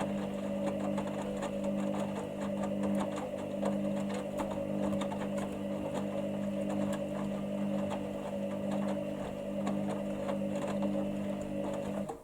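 Hoover Dynamic Next washing machine running, a steady motor hum with a fast rattle of small ticks, which cuts off suddenly near the end.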